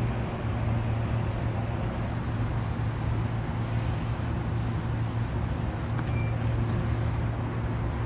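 Saitama Railway 2000 series electric train heard from inside the car, running at a steady speed: an even rumble of wheels on rail with a faint steady hum.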